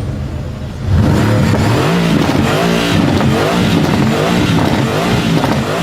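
A car with a loud exhaust: the engine idles, then about a second in it is revved hard several times in a row, the pitch rising and falling with each blip.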